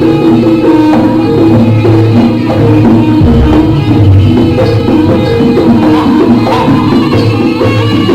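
Live jaranan music: a Javanese ensemble of drums and pitched percussion playing a steady, repeating gending. A deep low beat joins about three seconds in.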